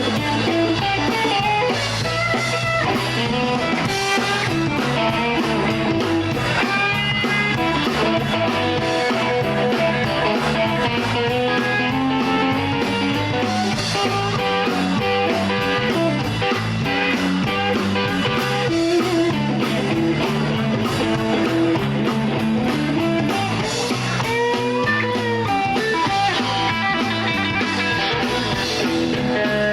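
Live blues band playing an instrumental break without vocals, an electric guitar to the fore.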